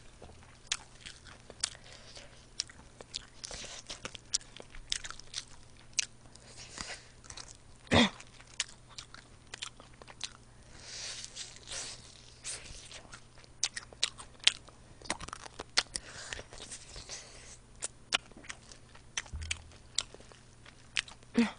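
Close-miked biting and chewing of crispy fried chicken wings: irregular crisp crunches, with one louder crunch about eight seconds in.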